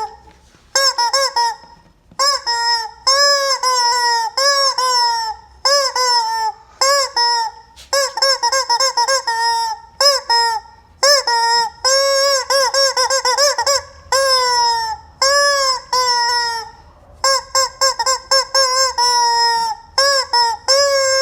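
Rubber squeaky chicken toy being squeezed over and over, giving loud honking squawks in quick runs of several, with short pauses between runs.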